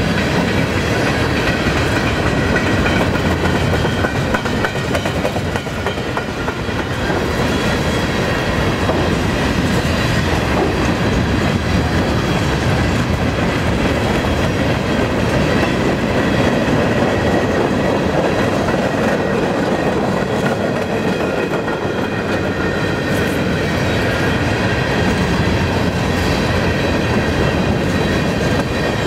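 Freight cars of a long mixed freight train (boxcars, centerbeam flatcars, a tank car) rolling past at low speed: a steady rumble and clatter of steel wheels on the rails, with thin, steady high ringing tones over it.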